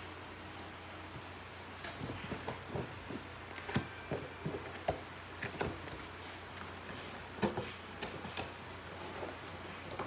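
Irregular clicks, knocks and light rattles of small objects being handled, over a steady low hum.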